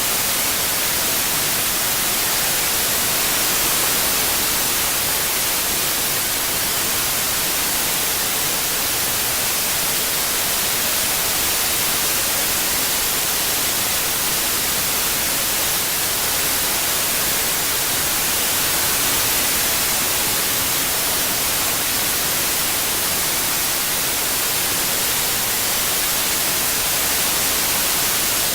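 Steady electronic white noise, an even hiss strongest in the treble, swelling and easing slightly every several seconds.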